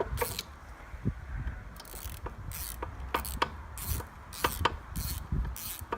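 Ratchet wrench clicking in short, uneven runs as it backs the cylinder head bolts out of a small outboard engine.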